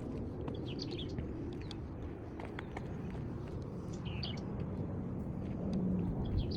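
Birds chirping outdoors: short high calls about a second in and again about four seconds in, with faint scattered clicks over a steady low rumble.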